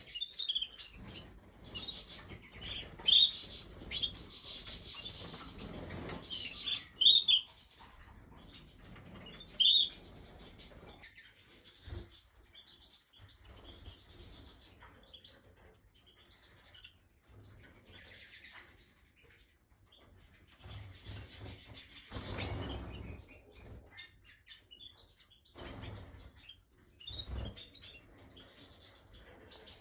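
Canaries in an aviary: short, sharp chirps and calls, the loudest ones in the first ten seconds, with bursts of wing flapping as the birds flutter about.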